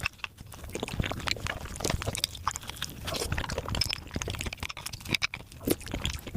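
Mukbang eating sounds played back at about five times normal speed: close-miked chewing, smacking and slurping run together into a rapid, high-pitched stream of wet clicks.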